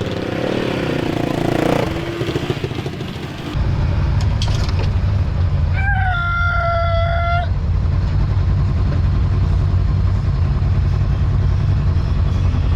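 An off-road vehicle engine running with a steady low rumble, starting abruptly about three and a half seconds in. Midway, a single high-pitched tone is held for about a second and a half over it.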